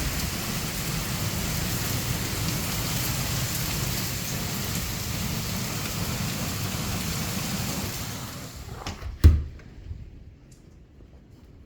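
Heavy thunderstorm rain pouring steadily. About nine seconds in, the rain fades away and a single sharp thump sounds, after which it is much quieter.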